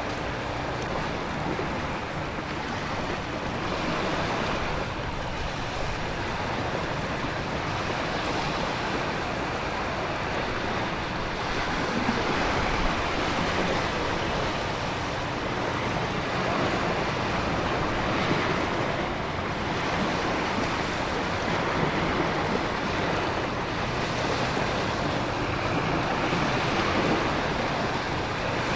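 Storm ambience: a steady wash of heavy rain and wind over surging ocean waves, swelling and easing every few seconds.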